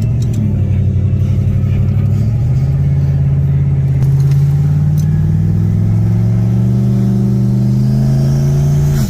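LS V8 in a Fox Body Mustang running at low revs and pulling away gently. The engine note climbs slowly over several seconds, then drops sharply near the end.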